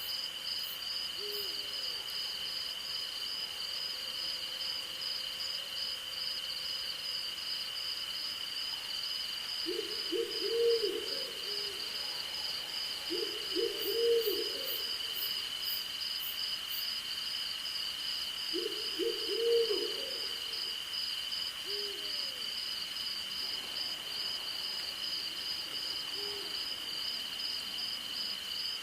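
An owl hooting over a steady night chorus of crickets: three louder bouts of several quick hoots, with a few single softer hoots before and after. Under it one insect keeps a continuous high trill while another pulses rapidly above it.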